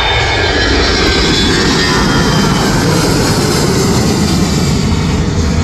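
A TransNusa airliner passing close by, its engines loud and steady. It is a broad rushing noise, with a faint high whine that falls slightly in pitch over the first couple of seconds.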